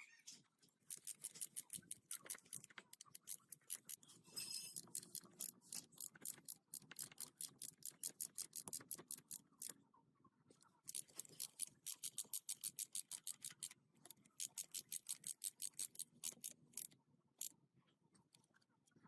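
Rapid, even mechanical clicking, about five or six clicks a second, in runs of a few seconds broken by short pauses.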